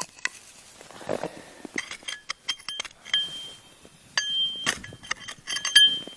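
Repeated light metallic clinking: a dozen or so sharp strikes, several leaving short clear ringing tones, most of them packed into the second half.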